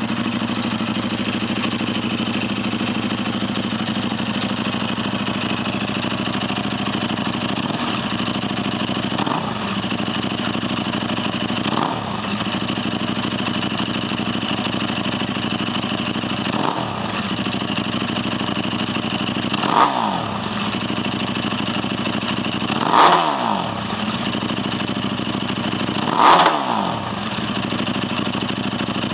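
KTM RC8 V-twin with a full Akrapovic titanium exhaust, its dB killer still fitted, idling steadily, then blipped about eight times, the last four blips the loudest, each rev falling back to idle.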